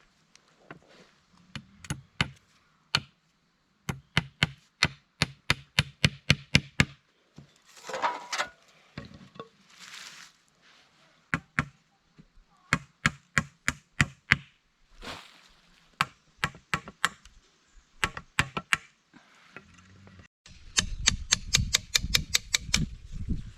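Repeated chopping strikes on wood, coming in quick runs of several blows with short pauses between, like a blade cutting through wood. Near the end the strikes come faster over a low rumble.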